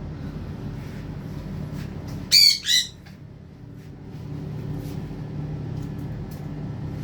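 A bird squawks twice in quick succession, two loud, harsh calls about two and a half seconds in.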